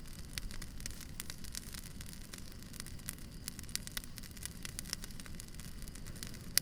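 Campfire crackling: irregular sharp snaps and pops of burning wood over a low, steady rumble, with one louder pop near the end.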